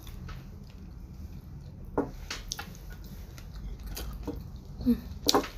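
Close-miked eating sounds: a person chewing food, with a few short, sharp mouth clicks and smacks about two seconds in and again near the end.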